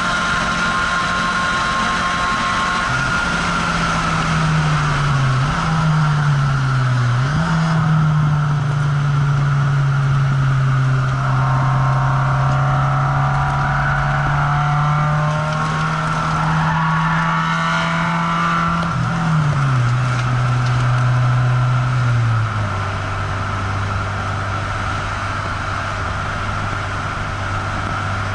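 Car engine heard from inside the cabin, pulling steadily at speed around a race track, its note dipping and recovering a few times in the first several seconds, then falling in two steps past two-thirds of the way as the car eases off.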